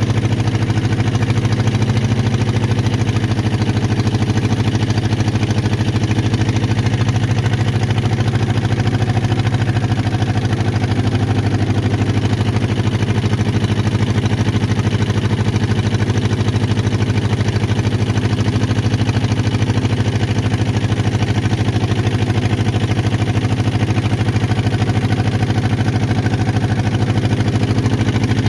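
Small engine of a crop-watering boat running steadily at constant speed, an unbroken drone.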